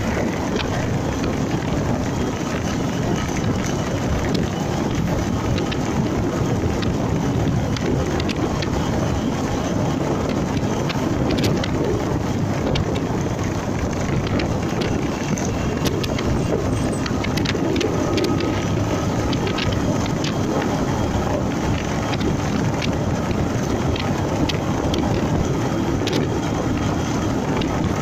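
Honda MegaPro Primus single-cylinder motorcycle running while being ridden, heard through a mounted camera with steady wind and road noise and scattered small ticks.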